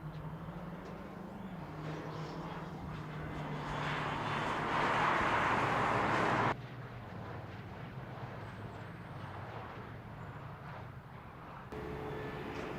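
Car driving: a steady engine hum under rising wind and road noise that grows loudest and then cuts off abruptly about halfway through, followed by a quieter steady engine hum that steps up again near the end.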